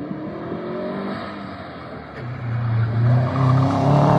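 Turbocharged Subaru Forester STI flat-four engine accelerating hard, its pitch climbing, dropping briefly about two seconds in as if at a gear change, then climbing again, louder, toward the end.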